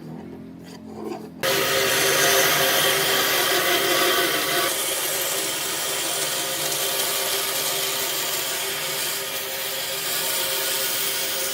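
A power tool working wood starts abruptly about a second and a half in and runs steadily: a constant motor tone under a rough rubbing, cutting noise.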